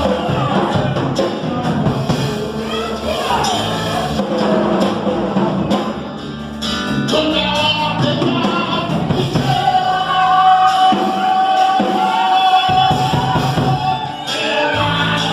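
Gospel hymn sung by a male singer over instrumental backing, with one long held note in the middle.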